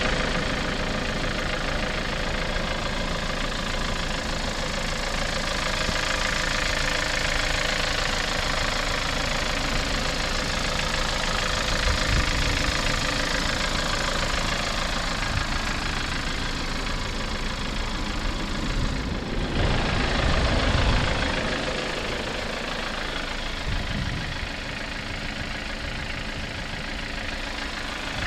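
A 2020 Hyundai Santa Fe's 2.4-litre four-cylinder engine idling steadily, with a brief low rumble about twenty seconds in.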